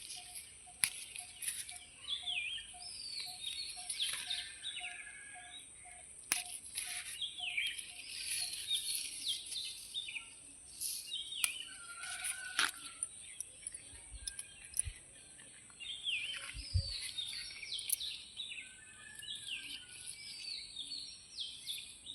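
Several birds singing and chirping, with many short falling notes, over a steady high insect drone. A low note repeats about twice a second for the first eight seconds or so.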